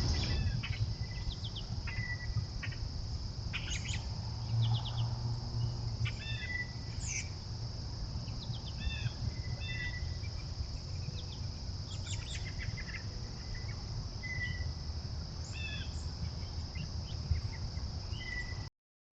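Outdoor trail camera audio: many short bird chirps and call notes over a steady high-pitched insect drone, with a low rumble in the background.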